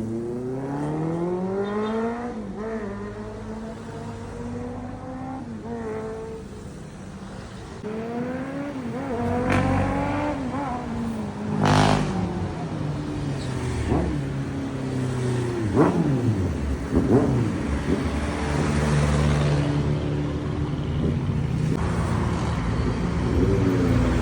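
Honda CB650R inline-four engine through an aftermarket slip-on exhaust, ridden at speed: the pitch climbs in several runs as it accelerates through the gears, then falls as the throttle closes. A few sharp cracks come around the middle.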